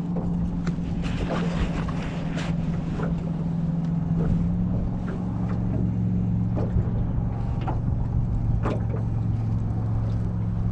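A boat motor running with a steady hum that drops to a lower pitch about halfway through, with scattered clicks and knocks.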